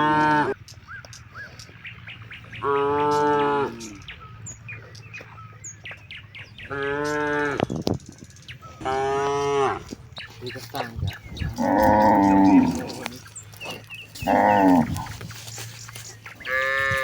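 Cattle mooing over and over, about six separate moos each lasting around a second, some noticeably higher-pitched than others.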